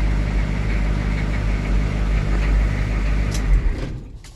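Non-turbo 6.2-litre V8 diesel of a 1983 M1008 Army truck idling steadily. About three and a half seconds in it shuts off and runs down to a stop.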